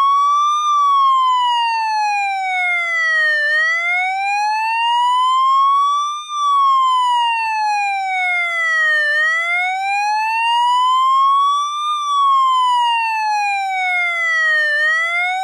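Police siren wailing: one steady tone sliding slowly up for about three seconds, then down for about three, over and over, nearly three full rises and falls.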